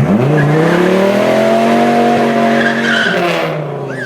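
A supercar engine revving up sharply and held at high revs while the tyres squeal, then dropping off about three seconds in.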